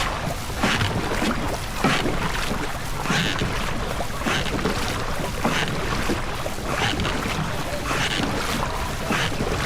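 A crew's paddles dipping and pulling through the water together in a steady stroke rhythm, about one stroke every second and a quarter, with wind rumbling on the microphone.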